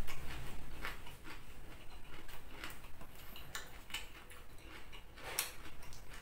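Close-up chewing of crunchy raw vegetables: a run of irregular crisp crunches and clicks, with one louder crunch about five seconds in.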